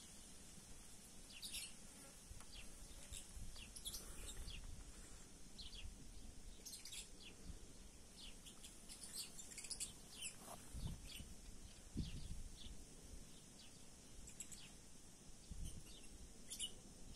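Small birds chirping in the background: short, high chirps scattered throughout, faint. A few soft low thumps come in the second half.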